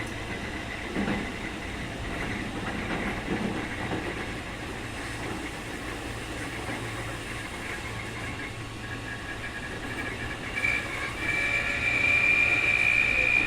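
Keikyu 2000 series electric train car running at speed, heard from inside: a steady running rumble with a thin high tone. About ten seconds in, a louder steady high whistle comes in and holds.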